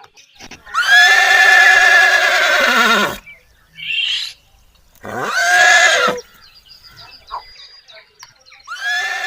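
An animal calling three times: long, loud, wavering calls that fall in pitch at the end.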